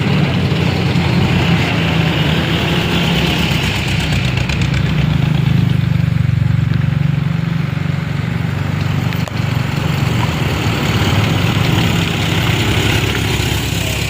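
A vehicle engine running loud and steady, with a constant low hum.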